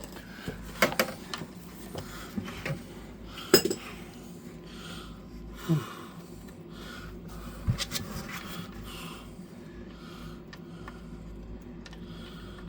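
Scattered metallic clinks and knocks of hand tools and parts being handled while draining the engine oil, the sharpest about a second in and at about three and a half seconds.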